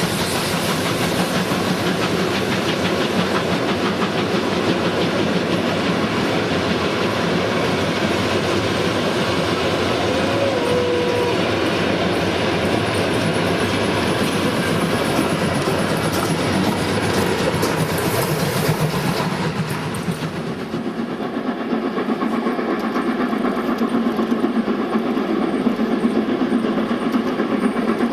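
A train running on the track, with wheels clattering over the rail joints. About twenty seconds in, the sound dulls as the higher part drops away.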